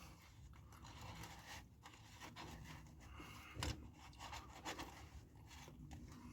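Faint scraping and rustling of nachos being handled and eaten, with one louder crunch about three and a half seconds in.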